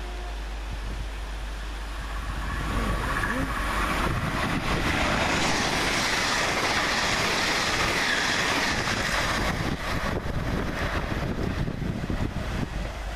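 Hitachi Class 802 bi-mode passenger train passing through the station at speed. Its rush builds over a couple of seconds, stays loudest for about five seconds as the train goes by, then fades as it draws away.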